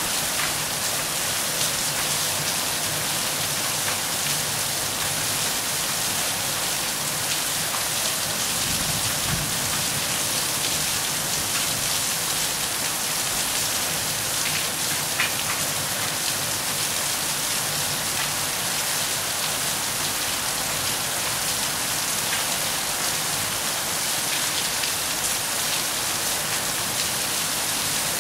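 Steady rain falling, an even rush of many drops, with a few louder single drops standing out.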